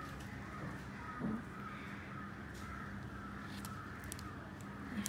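Faint bird calls, short and repeated over and over, with a steady low hum underneath.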